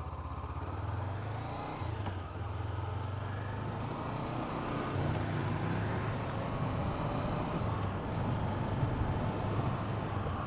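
2017 Honda CB500F's parallel-twin engine pulling and accelerating, with a few short breaks in the engine note as it shifts up. Wind rushes over the helmet camera's microphone.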